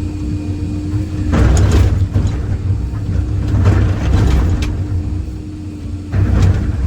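Excavator engine running steadily with a constant hydraulic whine, while the bucket knocks and scrapes against concrete slabs several times, the crunches coming irregularly over the seconds.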